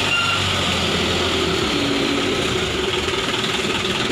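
Loaded sand truck's diesel engine running steadily with a dense mechanical rattle.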